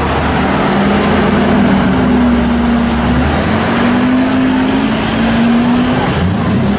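Porsche 918 Spyder hybrid supercar pulling away slowly in traffic, its engine running at low, fairly steady revs with only small rises and falls in pitch.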